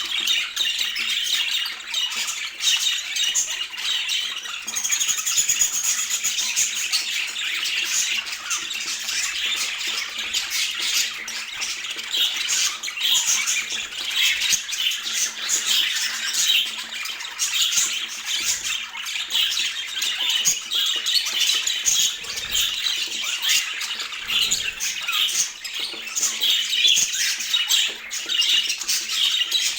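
Budgerigars chattering continuously, a dense, unbroken stream of many short, overlapping calls.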